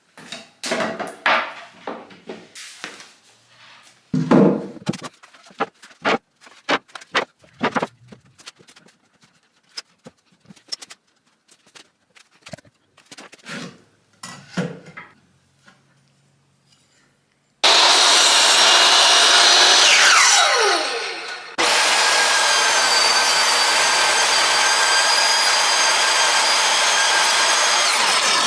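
Scattered knocks and clicks of wooden pieces being handled and set down. Then an electric woodworking power tool starts up and runs, winds down with a falling whine, and runs again steadily to the end.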